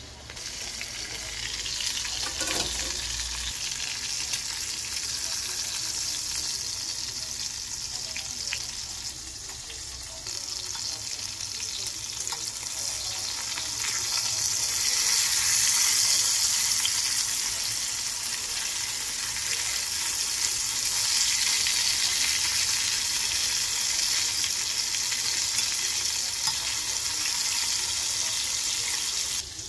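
Breaded shrimp deep-frying in hot olive oil, a steady hissing sizzle that swells louder about halfway through, with one light knock a couple of seconds in.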